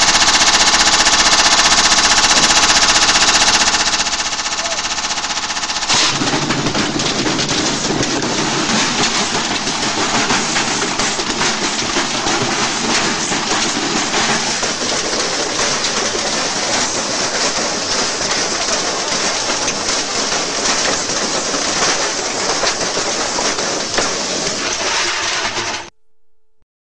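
Washing machine spinning with a brick loose in its drum: a loud, rapid hammering rattle as the brick batters the drum and the machine is wrecked. It is loudest over the first four seconds, a little quieter after that, and cuts off suddenly near the end.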